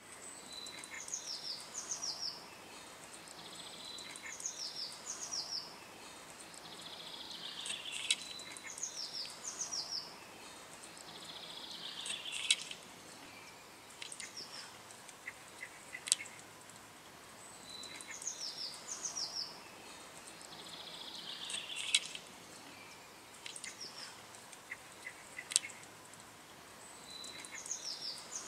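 Songbirds singing: short phrases of high chirps repeating every few seconds, with some lower sweeping notes and a few sharp clicks between them, over a faint steady outdoor background noise.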